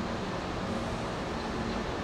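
Hankyu electric train at the station, a steady rumbling hiss with a faint low hum.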